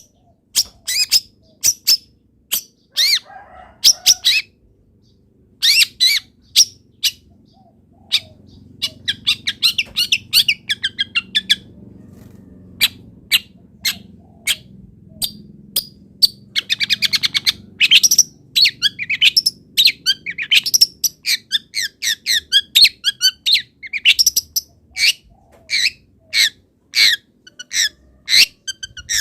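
Long-tailed shrike (cendet) singing loudly: a string of sharp, short notes broken by fast chattering runs.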